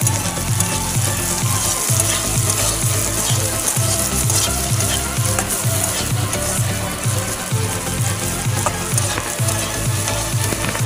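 Sliced onions sizzling in a steel wok, stirred and scraped with a metal spatula, over a steady low beat of background music.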